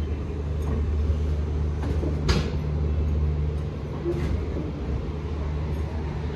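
Passenger train running slowly, heard from on board: a steady low rumble, with a sharp knock about two seconds in and a fainter one a couple of seconds later.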